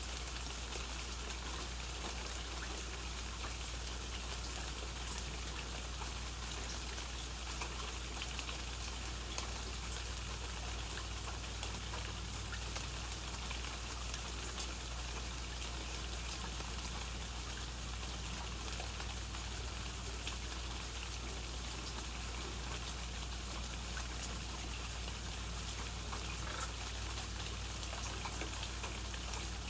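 Steady rain falling, a continuous hiss dotted with the ticks of individual drops hitting surfaces, over a low steady hum.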